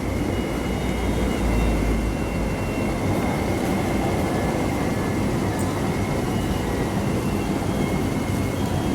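West Rail Line IKK-train running along the track, heard from inside the carriage: a steady rumble of wheels and running gear with a faint high whine.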